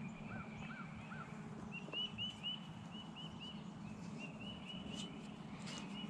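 Songbirds chirping faintly: three short arched notes near the start, then a run of higher, quickly repeated chirps, over a faint steady low hum.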